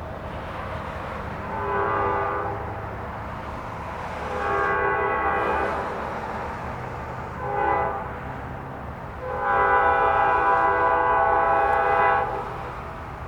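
Diesel locomotive air horn sounding the grade-crossing signal: long, long, short, then a last long blast held about three seconds. A steady low rumble of the train runs underneath.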